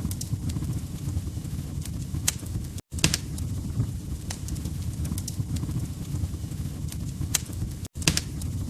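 Log fire crackling: a steady low rumble of flames with scattered sharp pops and snaps. The sound cuts out for an instant twice, about three seconds in and near the end.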